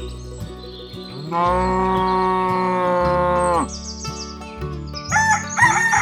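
A cow mooing once in a long, drawn-out call that falls away at the end. A rooster starts crowing near the end.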